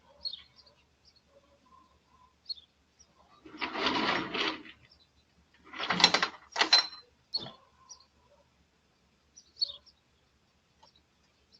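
Small birds chirping in short, high calls scattered throughout, with two louder bursts of noise, each about a second long, around four and six seconds in.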